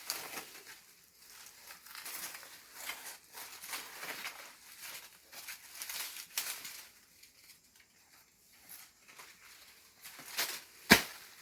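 Leaves and branches of an orange tree rustling and crackling as they are handled to pick fruit, with one sharp knock near the end.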